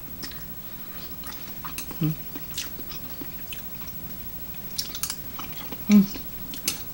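Close-up mouth sounds of a person chewing a boiled egg dipped in spicy tteokbokki sauce: wet smacks and clicks, with a short hum of enjoyment about two seconds in and again near six seconds.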